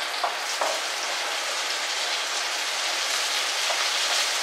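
Dried red chillies and small onions sizzling steadily in hot sesame oil in a steel pan, with a couple of light knocks in the first second.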